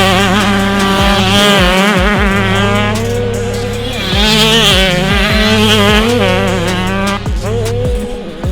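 Motocross bikes racing on the track, their engines revving up and falling back as riders work the throttle and shift, with another bike's engine surging in about four seconds in.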